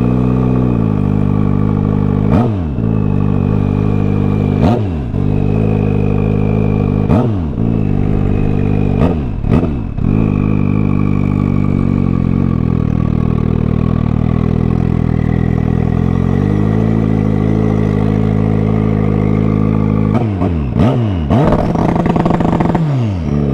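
Turbocharged Suzuki Hayabusa's inline-four engine at low speed, its revs dipping sharply and climbing back about every two seconds, then holding steady for several seconds before dipping a few more times near the end. A faint high whine runs over it.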